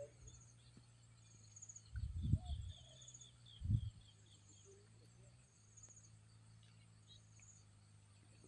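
Insects chirping in short high trills that repeat about once a second, with a second, lower trill for a second or so. Twice, about two and four seconds in, a loud low rumble of handling or wind on the microphone covers them.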